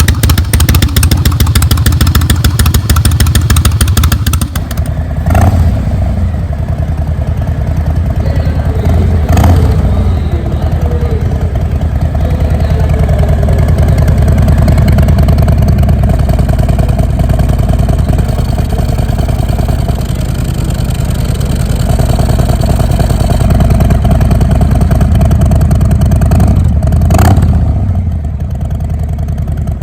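Harley-Davidson Breakout's V-twin engine heard through its exhaust. It runs hard and loud for the first four seconds or so, then drops to a lower, steady running sound with a few short throttle blips.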